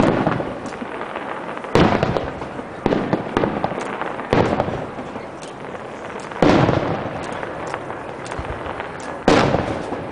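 Aerial fireworks shells bursting: five loud bangs a couple of seconds apart with a few smaller pops between, each bang dying away over a second or two amid faint crackling.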